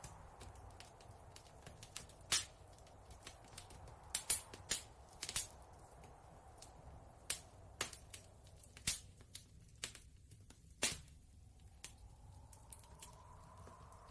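Campfire crackling, with irregular sharp pops of varying loudness, over a soft wind that fades in the middle and swells again near the end.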